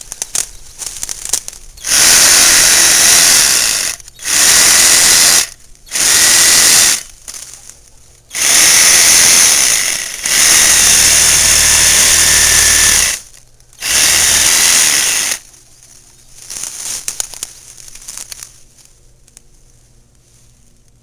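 Cordless reciprocating saw with a pruning blade cutting through honeysuckle stems in six loud bursts of one to three seconds each, stopping briefly between cuts. Quieter crackling follows near the end.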